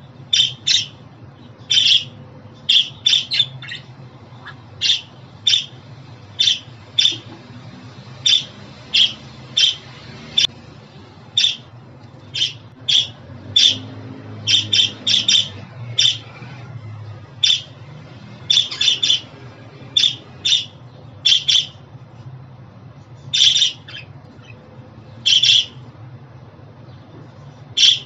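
Budgerigar giving short, sharp chirping calls in an irregular series, about one or two a second and sometimes in quick pairs, over a faint low hum.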